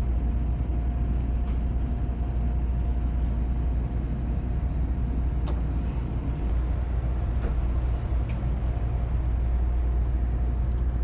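Shinkansen running noise heard inside the passenger car: a steady low rumble with a faint steady whine, and a single brief click about halfway through.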